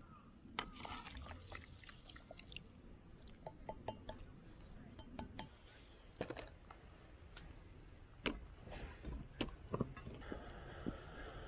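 Wood campfire crackling: faint, irregular snaps and pops from the burning firewood.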